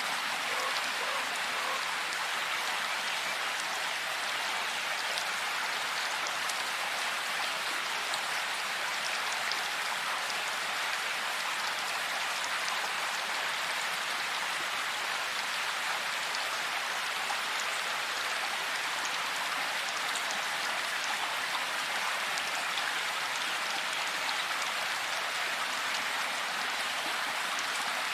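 Steady rain falling, an even hiss with scattered fine drop ticks on top.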